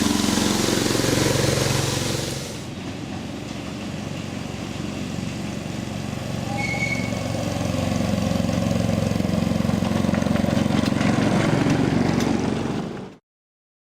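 Miniature railway locomotive running, with a strong hiss over a steady low mechanical note for the first couple of seconds. The hiss then fades and the running note swells again before cutting off suddenly near the end.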